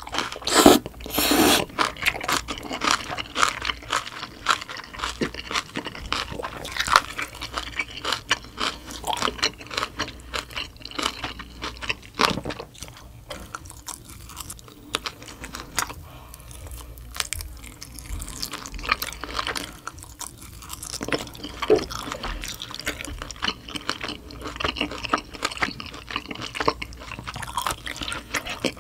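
Close-miked eating sounds: a loud slurp of noodles about a second in, then repeated chewing with wet clicks and crunches, first of spicy kimchi noodles and then of a grilled marinated beef short rib.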